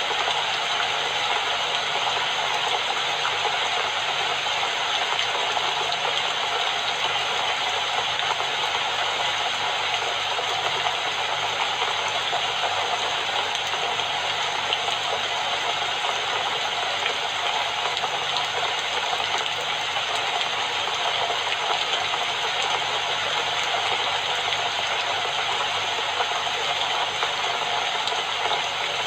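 Steady, even rainfall, a constant dense patter with no breaks or changes.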